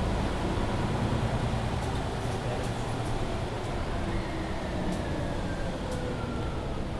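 Mercedes-Benz Citaro C2 Hybrid city bus driving, its drivetrain giving a steady low rumble. From about four seconds in, a faint whine falls in pitch.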